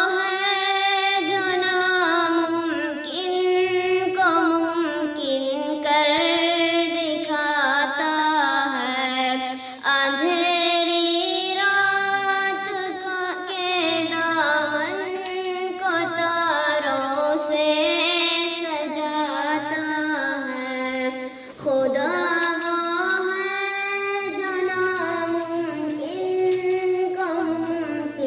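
A high solo voice singing an Urdu hamd in long, drawn-out phrases that glide and waver in pitch, with brief breaths between lines.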